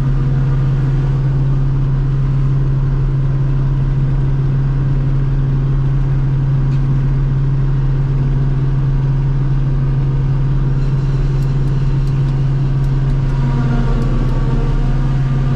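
Diesel engine of a farm harvest machine running steadily, a constant low drone with no change in speed.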